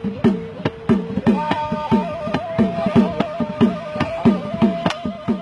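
Gasba reed flute holding a long note that steps up about a second in and is decorated with quick trills, over a steady beat of hand-drum strikes.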